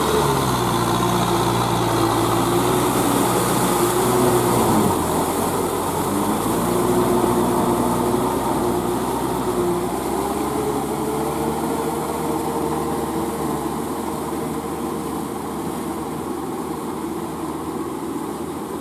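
Kubota M6040SU tractor's diesel engine working steadily under load while rotary tilling wet, sticky paddy mud. Its pitch dips about five seconds in and climbs back a few seconds later as the load changes, and the sound slowly grows fainter toward the end.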